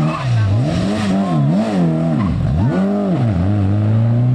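Rally car engine revving hard up and down several times in quick succession, dropping very low once about halfway, then pulling steadily up through the revs near the end.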